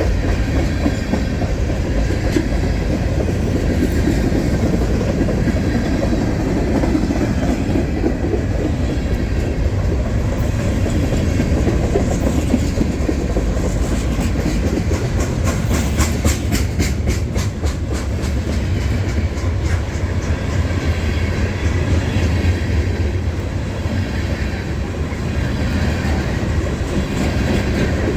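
Freight train rolling past at trackside, its wheels clacking over the rail joints in a steady rumble, with a quick run of sharp clicks about halfway through.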